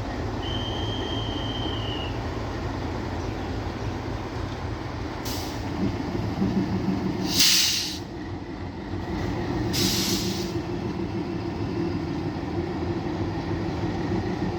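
Passenger express train rolling in with a steady low rumble of wheels on track. It gives a brief high wheel squeal near the start, then three short bursts of hiss about halfway through, the middle one loudest.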